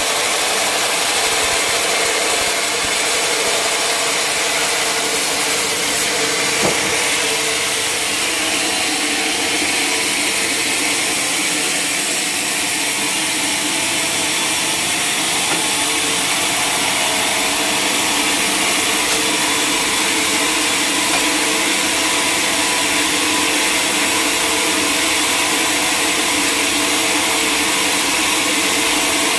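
Sawmill running, its blade cutting through a large mahogany log, with a steady, even noise and no breaks.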